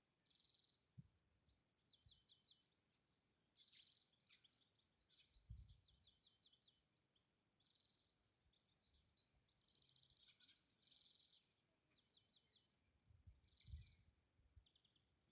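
Near silence with faint birdsong: repeated high chirps and short trills, and a few soft low thumps.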